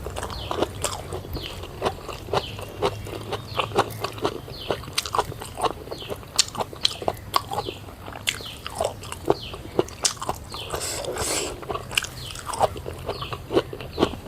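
Close-up eating sounds: chewing and crunching with frequent sharp, irregular mouth clicks, several a second.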